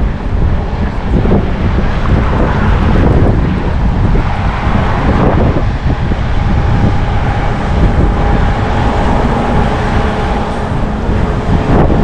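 Wind buffeting the microphone of a camera carried on a moving bicycle, a loud, rough low rumble, with a faint steady tone in the middle.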